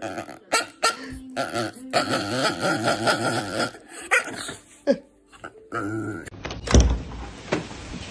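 A dog barking and growling, with a wavering drawn-out vocal in the middle and a few sharp clicks. There is a loud low thump near the end.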